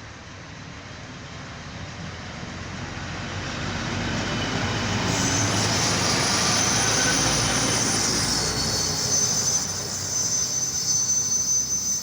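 Single-car ALN668 diesel railcar running past on jointed track, its diesel and wheel noise building steadily over the first few seconds. From about five seconds in, its wheels squeal with a high, wavering tone.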